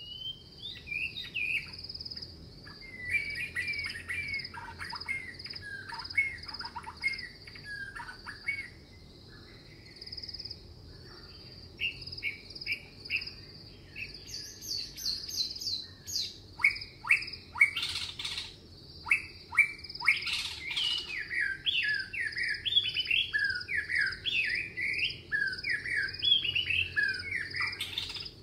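Many small birds chirping and calling, sparse at first and busier and louder in the second half, over a steady high pulsing trill.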